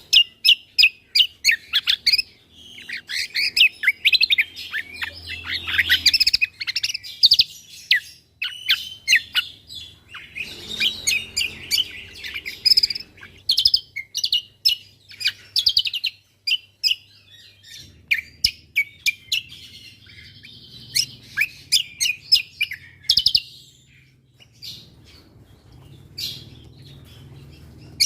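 Cucak kombo songbird singing: rapid, sharp, high chirps fired off one after another, broken by scratchy, chattering warbled runs.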